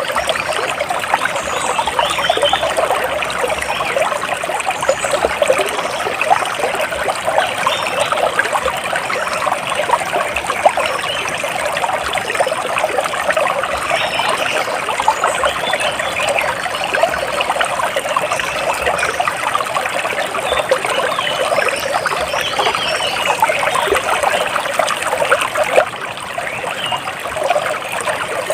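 Water trickling and splashing steadily, like a small stream running over stones, with faint bird chirps above it.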